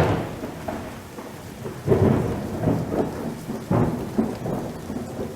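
Rain falling during a storm, with several short low rumbles, the loudest right at the start and others about two and nearly four seconds in.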